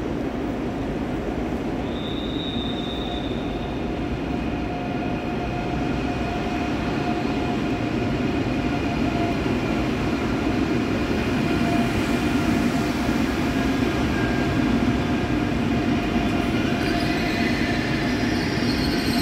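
Deutsche Bahn ICE 3 (class 403) high-speed train rolling slowly along a station platform, a steady rumble that grows slightly louder. A high squeal of several tones starts near the end as the train slows.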